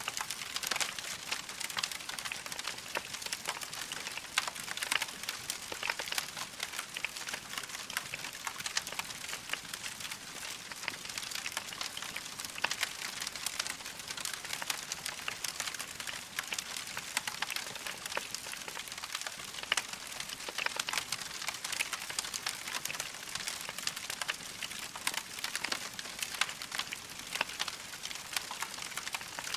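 Wood fire crackling in a fireplace: a dense, steady patter of small crackles with sharper pops here and there.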